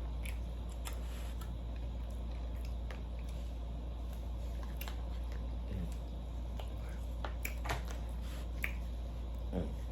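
A person chewing and eating red snapper close to the microphone: scattered soft, irregular mouth clicks and smacks over a steady low hum.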